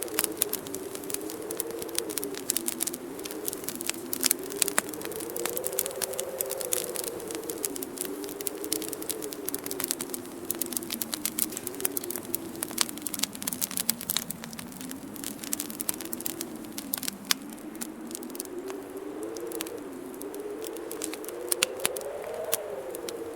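Wood fire crackling with frequent sharp pops, over winter wind blowing with a low wavering tone that slowly rises and falls in pitch.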